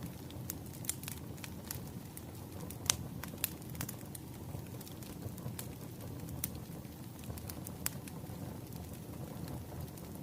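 Firewood burning, with irregular sharp crackles and pops, the loudest about three seconds in, over a steady low rush of the flames.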